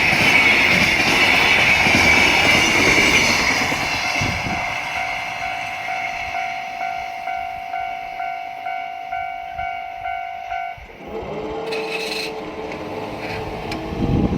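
Train hauled by a DF200 diesel locomotive passing, its rumble and wheel noise fading over the first few seconds. A level-crossing alarm rings at a steady beat of about one and a half strikes a second, then stops about eleven seconds in.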